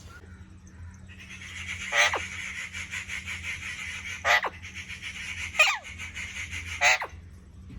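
Ringneck parrots calling: four sharp squawks, each falling steeply in pitch, a second or two apart, over a steady high rasping chatter that starts about a second in.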